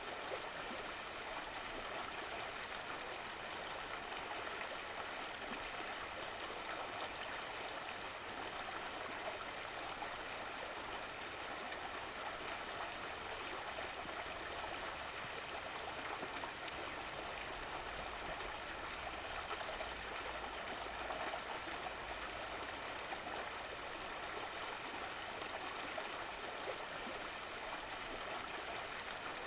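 Running water, a stream flowing and babbling steadily.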